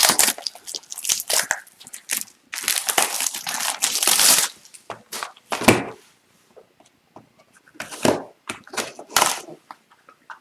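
Plastic shrink wrap being torn and crinkled off a sealed hobby box of hockey cards, in several rustling bursts with a quiet pause about two-thirds of the way through.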